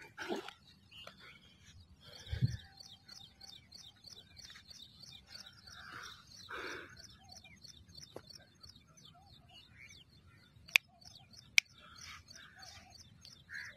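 Small birds chirping repeatedly in the background, with two sharp clicks near the end.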